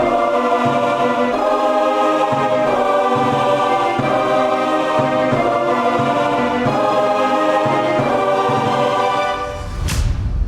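Choral music: sustained choir chords changing about every second and a half. Near the end the music fades and a brief sweeping sound follows.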